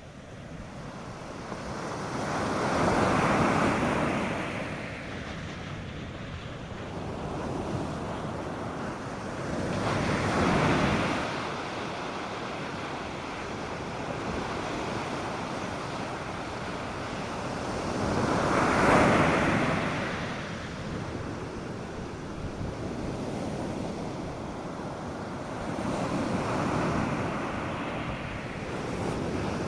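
North Sea surf breaking on a sandy beach, a steady wash that swells as a wave breaks about every eight seconds, the loudest near two-thirds of the way in. Light wind on the microphone.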